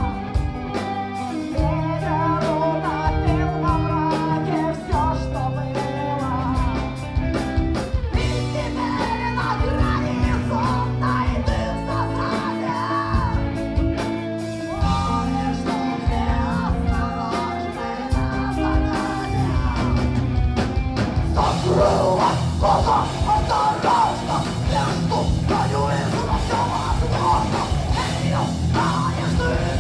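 Heavy metal band playing live: distorted guitars, bass and drum kit under a singing voice. About two-thirds of the way through the music becomes denser and brighter.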